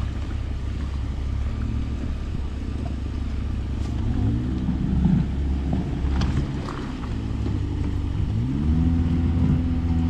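An engine running with a steady low drone, revving up and easing back down twice: once about four seconds in and again near the end.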